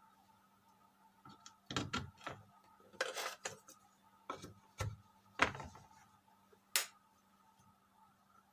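Scattered clicks and knocks of hands handling a desktop motherboard and its connections on a workbench, over a faint steady electrical hum.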